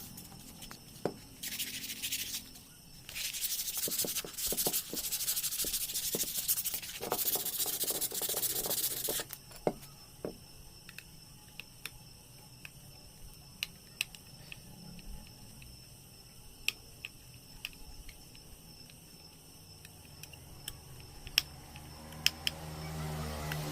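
Rubbing strokes on a hard surface, a dry scraping hiss in several runs over the first nine seconds or so, then a quieter stretch with scattered light clicks and taps.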